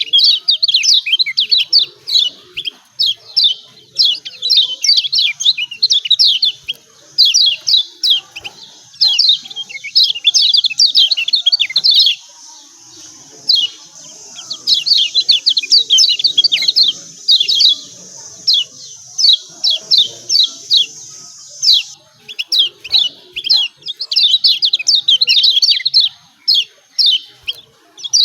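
Kecial kuning (a Lombok white-eye) giving rapid, excited 'ciak ciak' chirps, sharp downward notes in quick runs, broken by brief pauses.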